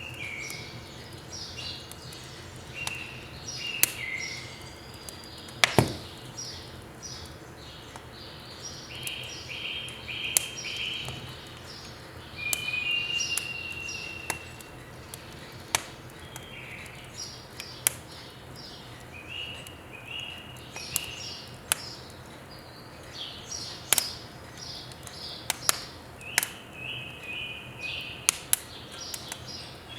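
Wood fire crackling in a wood stove, with sharp scattered pops, the loudest about six seconds in, while small birds chirp and sing in repeated short phrases throughout.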